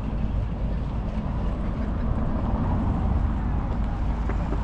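Wind buffeting the microphone: a steady low rumble with no separate events.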